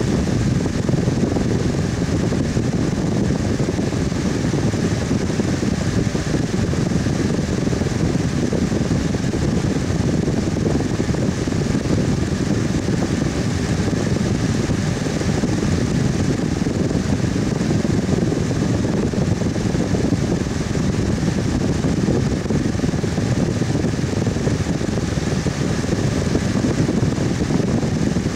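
Electric fan running steadily: a constant whooshing airflow, mostly low and deep, with a faint steady hum.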